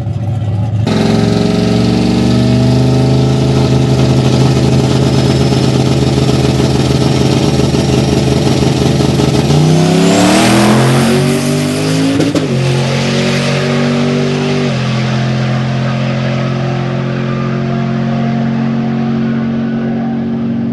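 Single-turbo Chevy drag truck's engine running loud and steady, then rising sharply in pitch about ten seconds in. It drops back near twelve seconds and steps down in pitch again near fifteen seconds.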